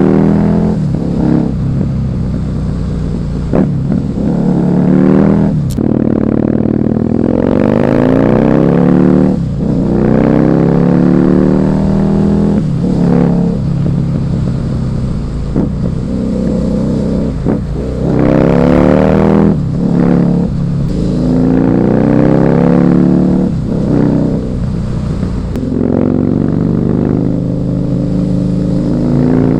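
Husqvarna Nuda 900R's parallel-twin engine pulling hard through the gears. The pitch climbs, then drops sharply at each shift or throttle lift, again and again every few seconds.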